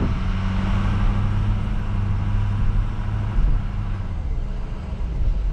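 Pickup truck engine and road noise heard from inside the moving cab: a steady low drone over a wash of noise, the drone dropping away about three seconds in.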